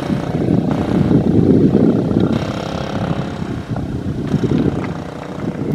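Hawk 250 dirt bike's single-cylinder engine running, its sound uneven and rumbling.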